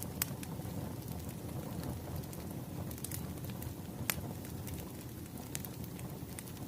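Wood fire crackling: a steady low rumble with sharp, irregular pops, the loudest about 4 seconds in.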